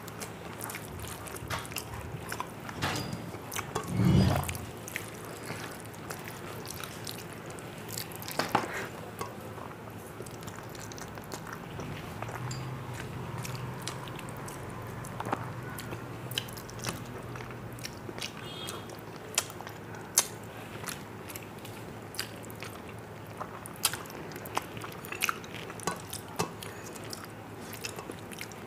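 Close-miked eating sounds: chewing and wet mouth clicks and smacks from a mouthful of rice and curry, with fingers squishing rice against a steel plate. A louder low thump comes about four seconds in.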